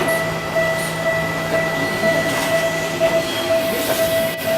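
Electric locomotive humming steadily, with a constant whine held at two pitches over a background rumble.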